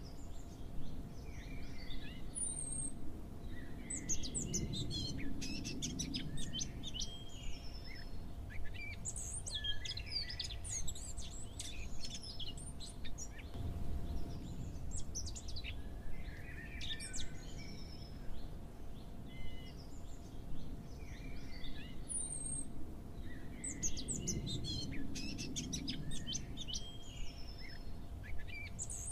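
Small birds chirping and twittering in clusters every few seconds, over a faint steady hum.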